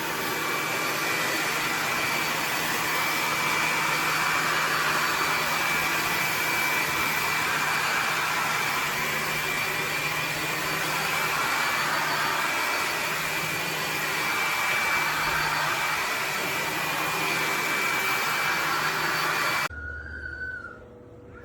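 Bissell PowerClean FurGuard vacuum cleaner running steadily: a rush of air with a high, steady whine over a low hum. The motor cuts off suddenly near the end.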